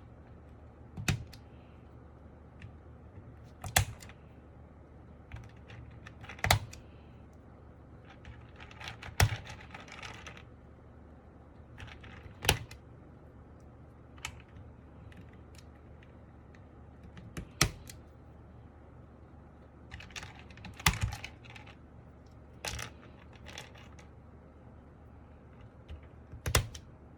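Keys being pressed on a foamed MK870 mechanical keyboard with Sky Panda tactile switches and Cherry-profile dye-sub keycaps: separate keystrokes, a heavier stroke about every three seconds with lighter clicks between, not continuous typing.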